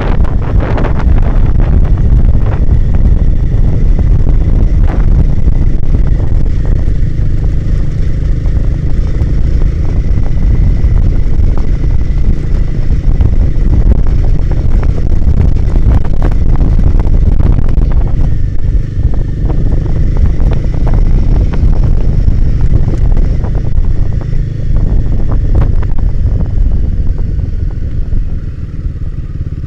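Royal Enfield Himalayan 450's single-cylinder engine running under way, with heavy wind buffeting on the microphone and many short knocks and rattles. The level drops a little near the end.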